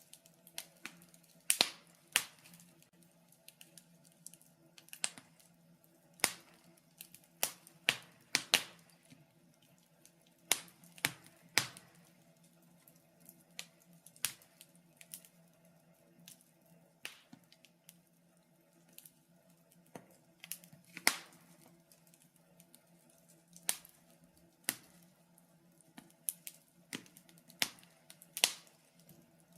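Wood fire crackling in a fireplace: irregular sharp pops and snaps, one to several every couple of seconds, over a faint steady low hum.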